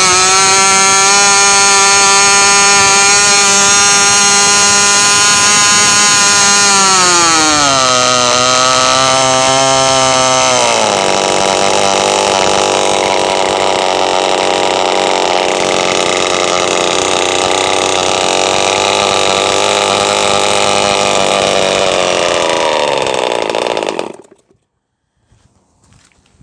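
MVVS 40 Quickee 500 6.5cc two-stroke model racing engine running at high revs through its bare exhaust manifold, without the tuned pipe: a loud, high-pitched steady whine. Its pitch drops about 7 seconds in and again about 11 seconds in. The sound stops suddenly about 24 seconds in.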